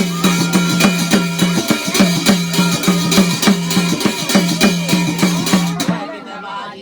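Garhwali jagar folk music accompaniment: a fast, even run of drum strokes with bright metallic strikes over them, stopping abruptly about six seconds in.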